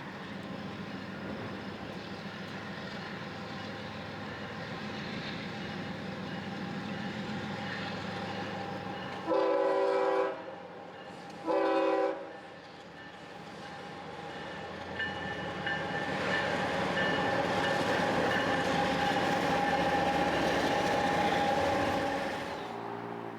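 A train on a busy commuter and freight main line, its locomotive air horn sounding two blasts of several tones, the first longer, about ten seconds in. The train's rumble and wheel noise then grow louder as it passes.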